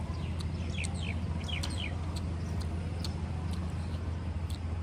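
A small bird gives a handful of quick, falling chirps about a second in. A steady low hum runs underneath, with small sharp clicks of chewing and handling food with the fingers.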